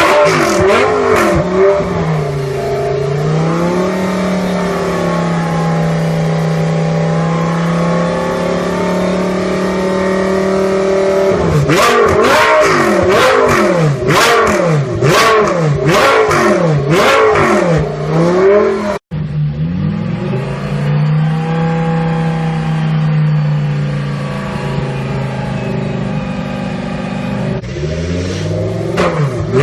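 Audi R8 LMS Ultra GT3 racecar's 5.2-litre V10 running at high revs, its pitch held fairly steady for several seconds at a time under full throttle. In between, the revs climb and drop sharply about once a second through a run of gear changes, and the sound breaks off abruptly about two-thirds in before the engine is heard again.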